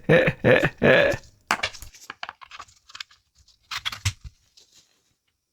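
Three short, tinny sounds about half a second apart from a Nintendo DSi XL's small speaker, then a string of light plastic clicks and taps from its buttons and stylus as the console is operated.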